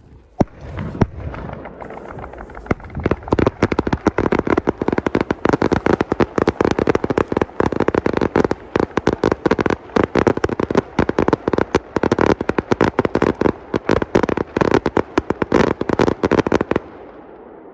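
Aerial fireworks going off in a rapid barrage of bangs, several a second, after a couple of single reports. The barrage stops suddenly near the end and the echo fades away.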